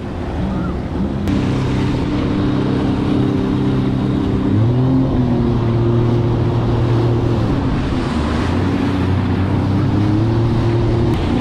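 Vehicle engine running at a steady pace, its note stepping up about halfway through and again near the end, with wind rushing over the microphone.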